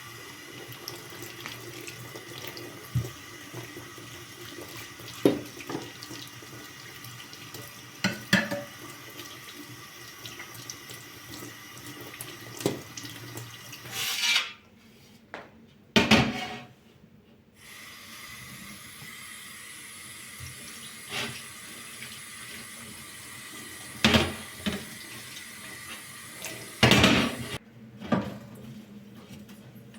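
Tap water running into a kitchen sink, with dishes and pots knocking and clinking several times as they are washed. The water stops for a few seconds about halfway through, then runs again.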